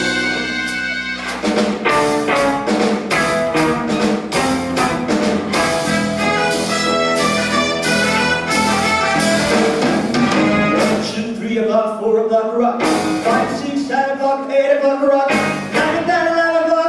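A live band playing, with a drum kit keeping a steady beat under sustained pitched instruments. The low end and drums drop out briefly about twelve seconds in, then come back.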